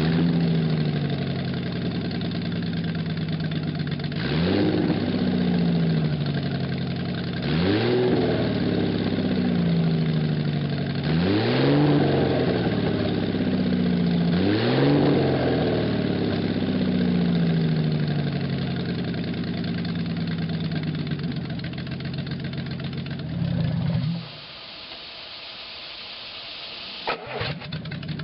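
Maserati 3500 GT 3.5-litre twin-cam straight-six with triple Weber carburettors, warmed up and running on a test stand. The throttle is blipped four times, each rev rising and falling back, then it runs steadily before stopping about four seconds before the end.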